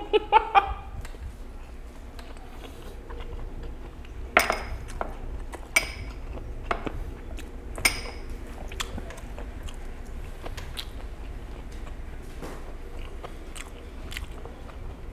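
A person chewing and biting food close to the microphone, with scattered small clicks. Three sharp, ringing clinks of glassware stand out about four, six and eight seconds in.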